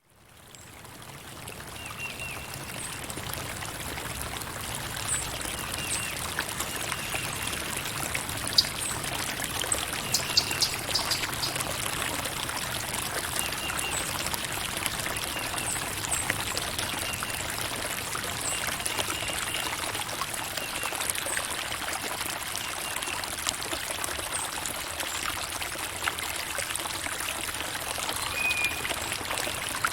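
Steady running water trickling and splashing, fading in over the first couple of seconds, with occasional faint high chirps over it.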